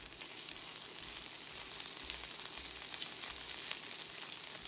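Diced, cornstarch-coated chicken thigh sizzling in oil in a wok over medium-high heat: a steady crackling hiss, loud enough that the meat is searing so its surface crisps instead of giving off water. A wooden spatula is turning the pieces.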